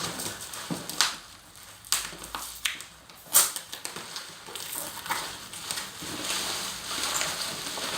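A parcel's packaging being opened by hand: wrapping crinkling and rustling, with irregular sharp snaps of tearing, the loudest a little past the middle.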